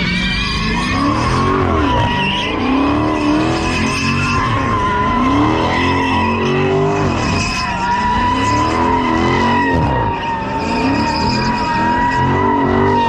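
A car sliding with its tyres squealing steadily while the engine revs climb and drop again and again, as in donuts or a drift.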